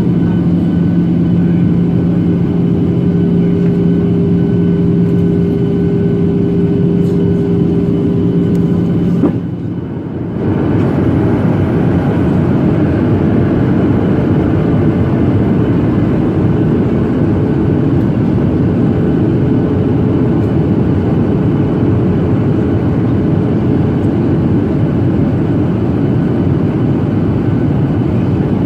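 Steady in-flight cabin noise of a Boeing 737-800: engine and airflow rush with a low, even hum. About nine seconds in it drops out for about a second, then resumes with a different, higher hum.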